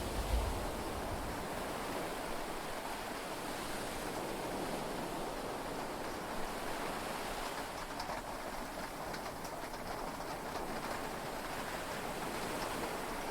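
Steady rain and sea wash heard from inside a yacht cabin, an even hiss; the tail of a low thunder rumble dies away about a second in, and a few light drop ticks come near the middle.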